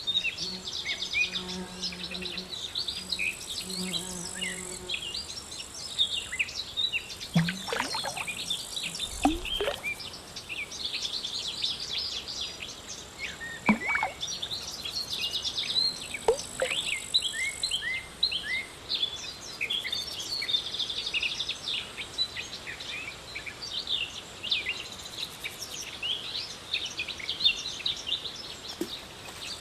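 Outdoor chorus of many small birds chirping in short, quick calls, with an insect buzz that comes and goes. A few louder, brief falling sounds stand out about eight and fourteen seconds in.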